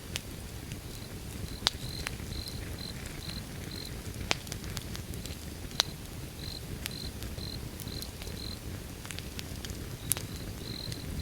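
Wood fire burning with a low steady rumble and scattered crackles, a few of them sharp loud pops. A cricket chirps in runs of short high pulses, about two or three a second, with pauses between runs.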